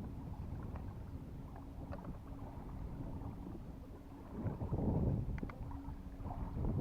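Wind rumbling on the microphone, with a faint steady low hum beneath it and a stronger gust about four and a half seconds in.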